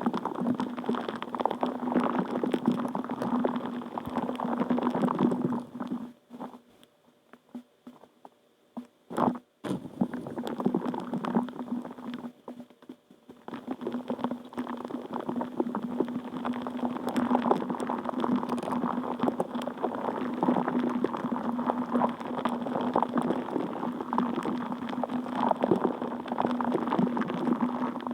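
Water bubbling and gurgling over a steady low hum. It cuts out about six seconds in, with one brief sharp sound in the gap, and comes back around thirteen seconds in.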